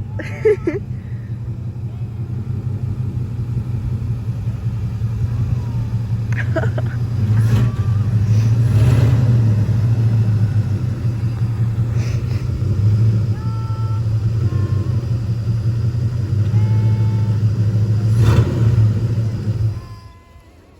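1961 Chevy Apache pickup's engine running steadily, swelling in level a few times as the truck is driven, with a few brief high squeaks midway. The engine cuts off suddenly near the end.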